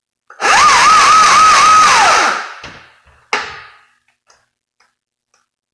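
Electric chainsaw run briefly after the chain tension is adjusted. A high whine rises quickly, wavers up and down a few times a second for about two seconds, then winds down. A sharp knock follows about three seconds in.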